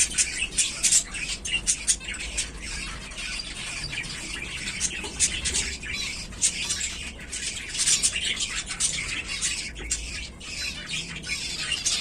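Zebra finches chattering: a dense stream of short, rapid calls from several birds, some sharper and louder than the rest.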